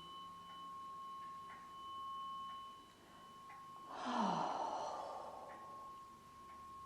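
A struck tuning fork rings with a steady pure tone. About four seconds in comes a short whoosh as the fork is swept up quickly through the air, meant to clear anxiety from the body.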